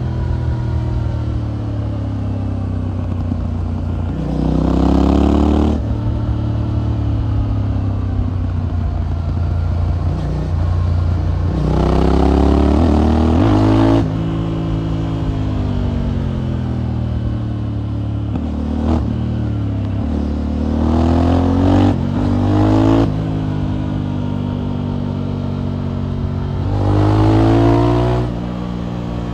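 Motorcycle engine and exhaust under way, the revs climbing in four pulls, each rising in pitch and dropping sharply at a gear change, with steadier cruising between them.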